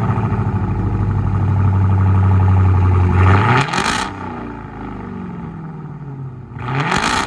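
Supercharged 6.2-litre Hemi V8 exhaust with all four mufflers deleted, straight pipe back to the catalytic converters, running at a steady fast idle just after starting. It is revved sharply twice, once about halfway through and once near the end, the pitch dropping back after each rev.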